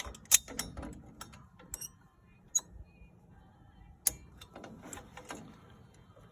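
Irregular sharp metallic clicks and clinks from vise-grip pliers and steel brake springs knocking against the shoes and backing plate while an adjuster spring is being stretched into place on a rear drum brake. The loudest click comes less than a second in.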